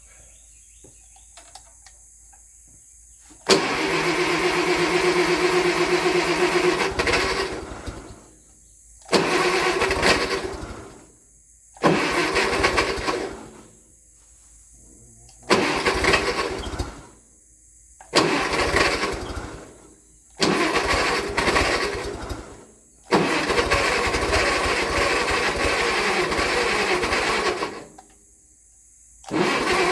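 Farmall Cub's four-cylinder engine being cranked by its starter in about eight separate tries of one to five seconds each, with short pauses between, and not catching. The owner puts the failure to start down to a battery that needs charging.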